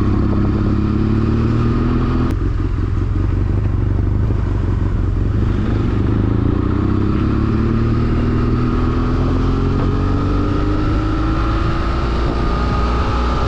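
BMW F800R's parallel-twin engine pulling under acceleration, its pitch rising; it breaks off briefly about two seconds in for an upshift, then climbs again steadily through the rest of the run.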